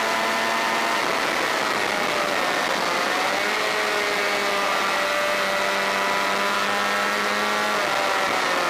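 Honda VFR400 race bike's V4 engine running hard at speed, heard onboard under heavy wind rush. Its pitch dips about two and a half seconds in and again near the end, then climbs back.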